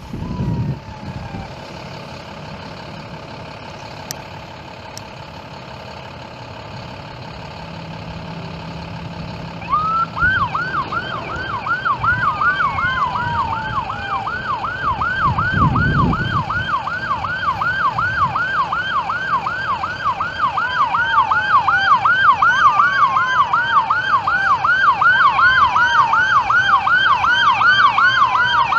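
Emergency vehicle sirens drawing nearer and growing louder. From about ten seconds in, a fast yelp siren cycles two to three times a second, with a second siren's slower falling sweeps layered over it.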